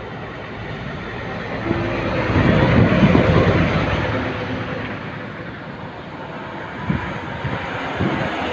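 A heavy truck passing on the highway: engine and tyre noise swell to a peak about three seconds in, then fade.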